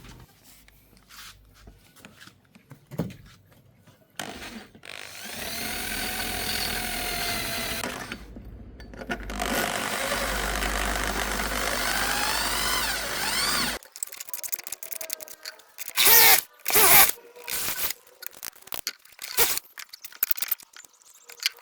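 A handheld power tool runs in two spells of several seconds, its pitch wavering up and down as it works. Several loud short knocks and clatters follow near the end.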